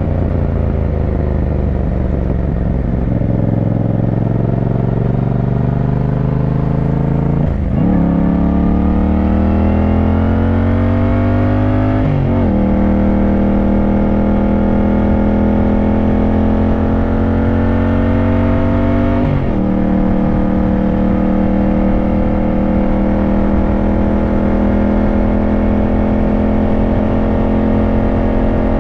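Yamaha motorcycle engine under acceleration, its pitch climbing and dropping sharply three times as the rider shifts up through the gears, then holding steady at cruising speed for the last nine seconds or so.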